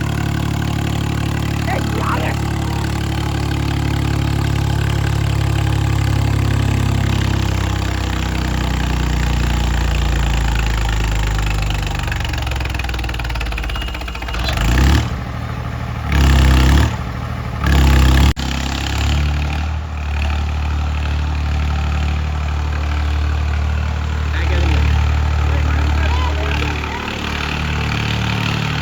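Diesel tractor engine running hard under load, its pitch sagging and recovering as it pulls. About halfway through come three brief, louder low surges.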